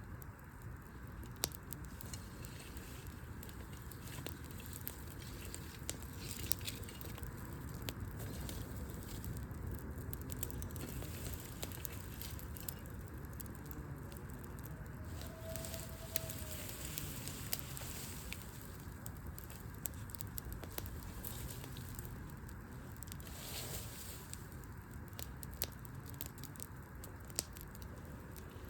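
Wood campfire burning, with irregular crackles and pops from the logs over a steady low rush.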